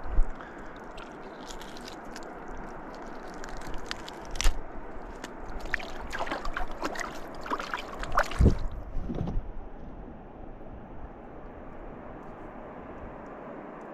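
Steady rush of flowing river water, with a few seconds of splashing and sloshing in the middle and a couple of knocks.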